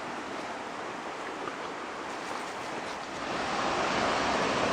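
Rushing creek water, a steady even wash that grows louder about three seconds in.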